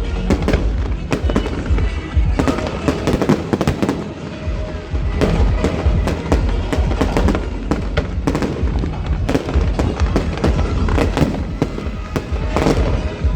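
Large fireworks display: a dense barrage of shell bursts and crackling bangs, many per second, with music playing underneath.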